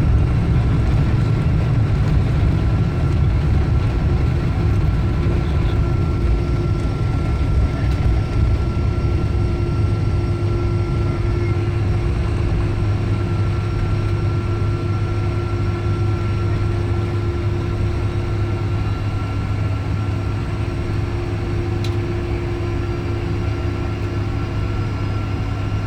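Cabin noise inside a Boeing 777-200 rolling on the ground after landing: a steady low rumble from the engines and airframe, easing slightly, with faint steady hums coming in after a few seconds.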